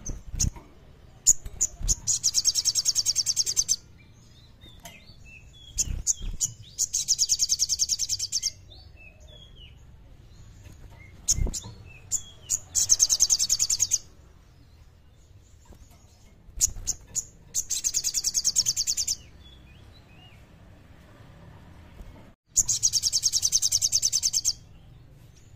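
A sogon singing its clear, rapid 'kleper' song: five high, fast trills, each lasting about two seconds and coming about every five seconds, with short chirps in between.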